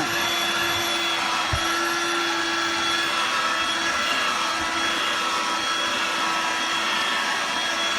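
Hoover Dirt Devil Vibe corded stick vacuum running steadily: a constant motor whine over rushing air, with one light knock about a second and a half in.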